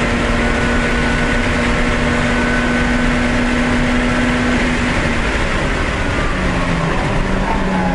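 Race car's engine heard from inside the cockpit, held at high, steady revs under full throttle down a straight, over constant wind and road noise. About five seconds in the engine note drops as the car slows hard for a corner.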